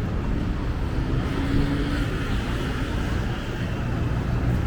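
City street traffic: a steady low rumble of passing vehicle engines and tyres.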